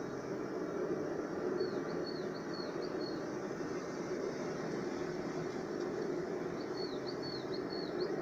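A small bird gives two short runs of high, quick chirps, about a second and a half in and again near the end, over a steady low rushing noise.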